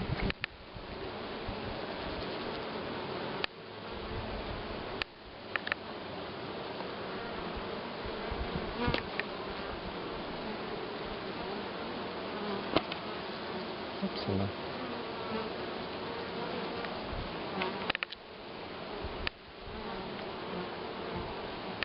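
A honeybee colony buzzing steadily and densely, with a few sharp clicks or knocks scattered through.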